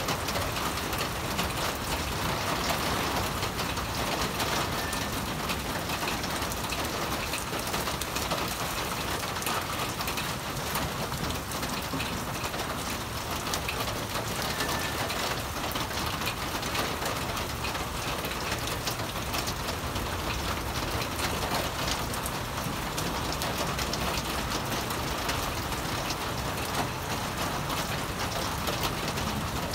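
Steady rain falling, an even hiss with a fine crackle of drops that holds at the same level throughout.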